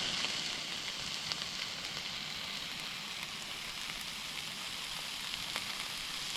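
Beef peppered steaks sizzling as they fry, a steady hiss with a few faint pops.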